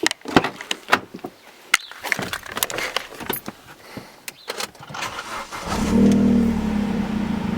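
A run of clicks, knocks and key jangles, then a Vauxhall Astra's engine starts about five and a half seconds in and settles into a steady idle.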